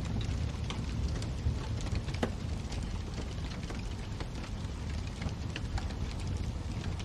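Wood fire burning in a fireplace: a steady low rumble of flames with irregular crackles and pops, one sharper pop a little over two seconds in.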